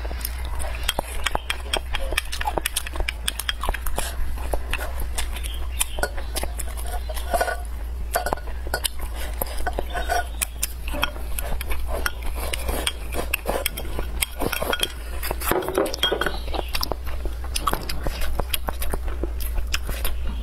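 Close-miked chewing with many quick, irregular mouth clicks, mixed with chopsticks clinking against a ceramic bowl, over a steady low hum.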